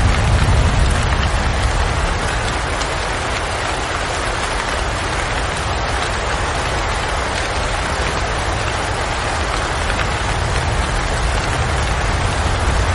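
Steady rain: a dense, even hiss of falling drops, with a low rumble in the first couple of seconds that dies away.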